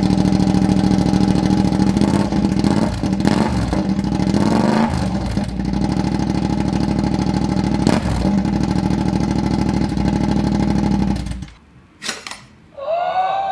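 Yamaha MT-07's parallel-twin engine idling loudly with the end can removed from its Akrapovic full exhaust, revved up a few seconds in and blipped once more near eight seconds, then switched off about eleven seconds in. A few metallic clinks ring out near the end.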